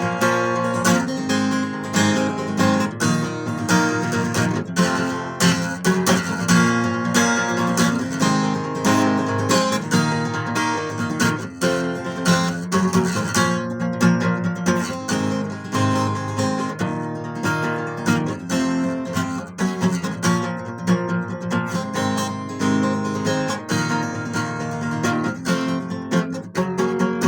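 Acoustic guitar, one string missing, strummed in a steady rhythm of full chords with no singing.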